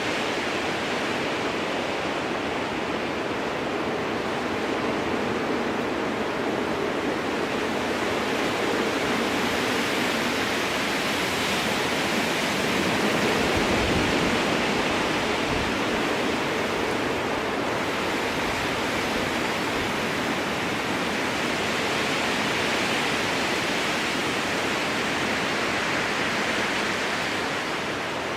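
Strong wind blowing through a spruce forest: a steady rushing that swells and eases slowly in gusts, loudest around the middle.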